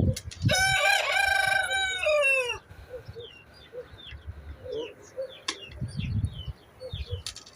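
A rooster crows once, a loud crow of about two seconds that drops in pitch at its end, while small birds chirp throughout.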